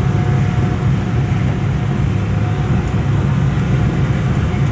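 Steady running noise of a mini tourist train heard from on board: a constant low rumble with a faint steady whine above it.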